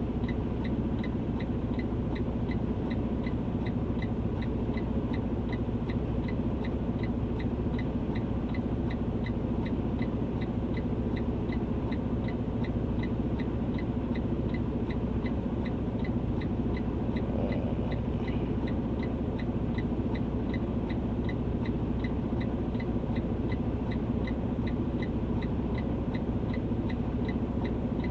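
A steady low hum with an even, rapid ticking laid over it, a little over two ticks a second, unchanging in level.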